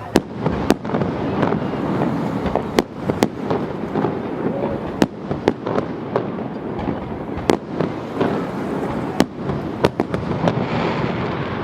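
Fireworks display: a dozen or more sharp bangs at irregular intervals over a continuous crackle and rumble of bursting shells.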